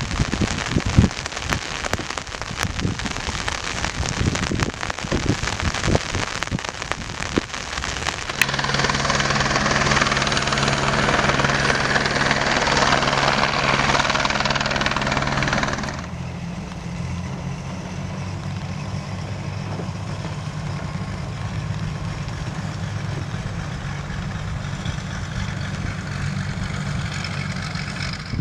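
Rain falling with dense pattering, then, from about a third of the way in, a steady aircraft engine hum with a low droning tone over a noisy rush. The sound changes abruptly twice, the second time dropping in loudness.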